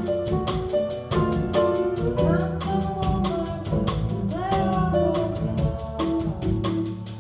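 Live small jazz band playing: drum kit keeping a steady cymbal beat under bass, chords and a melodic line that slides between some notes.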